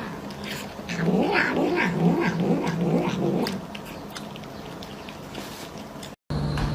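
A cat yowling, a wavering, drawn-out cry from about a second in that dies down after a couple of seconds.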